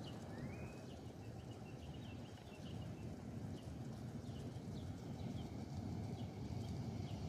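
Small birds chirping in short repeated calls a few times a second, with one brief rising whistle near the start, over a steady low outdoor rumble.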